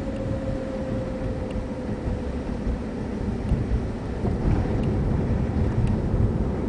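Steady whine from a 2003 VW Jetta VR6's 02M six-speed manual transmission, sinking slightly in pitch, under loud road rumble while driving. The owner is trying to trace this whine, which is most obvious between 35 and 40 mph and gone above 47 mph.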